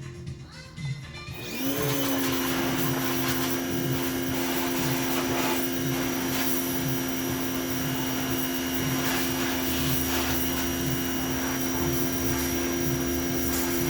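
Pressure washer starting up about a second and a half in, its whine rising quickly and then holding steady over the hiss of the water spray.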